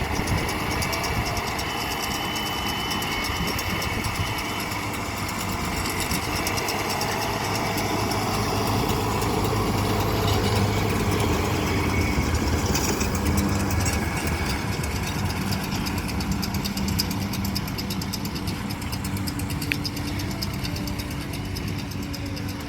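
A farm vehicle's engine running steadily, with a low even hum and mechanical rattle throughout.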